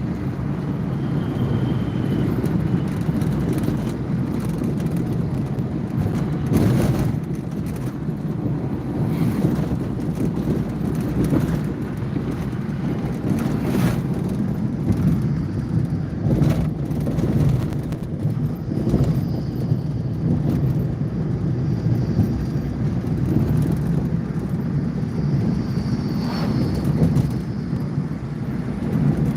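Steady road and engine rumble of a moving car, with a few brief knocks.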